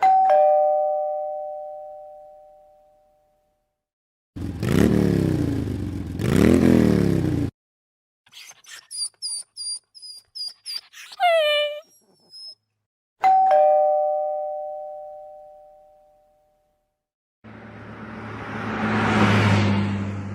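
Electronic doorbell chime, a two-note ding-dong that fades out over about three seconds, rung twice about thirteen seconds apart. Between and after the rings come other short, unrelated sound clips: a noisy sound with sweeping tones, a run of high chirps ending in a falling note, and a noisy sound over a steady low hum.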